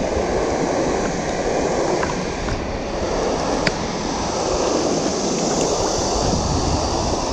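Steady rush of flowing stream water, with a few light clicks about two and four seconds in.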